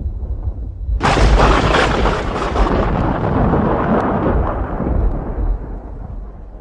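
Close lightning strike: low thunder rumbling, then a sudden sharp crack about a second in that rolls on and slowly dies away into a low rumble.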